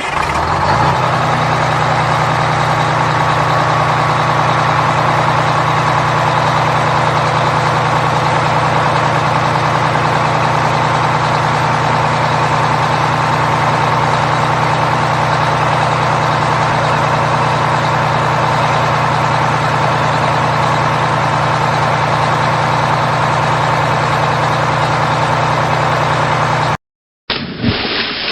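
Heavy vehicle engine idling steadily, cutting off suddenly near the end; after a brief silence another engine sound begins.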